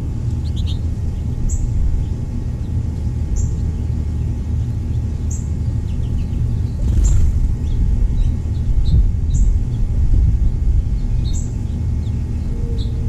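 Small birds chirping faintly over a loud, steady low rumble, with a short, high, falling note repeating about every two seconds.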